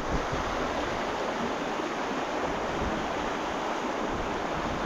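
Steady rushing of water from the beck and waterfall, with rain and wind blowing in heavy weather.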